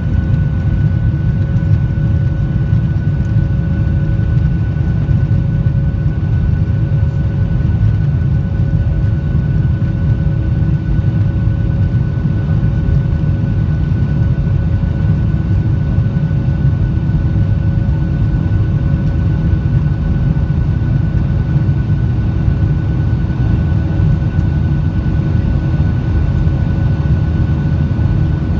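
Boeing 737-800's CFM56 jet engines running steadily: a constant low drone with a few faint, unchanging whining tones above it.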